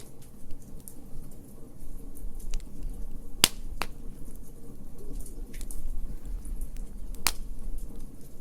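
Wood fire crackling over a low steady rumble, with scattered sharp pops, three of them louder, about three and a half, four and seven seconds in.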